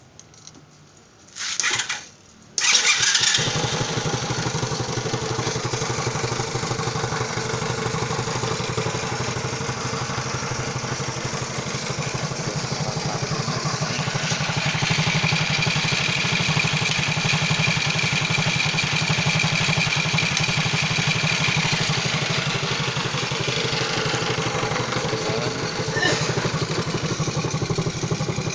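Zongshen 152FMH 108cc four-stroke minibike engine cranked by its electric starter, catching about two and a half seconds in, then idling steadily.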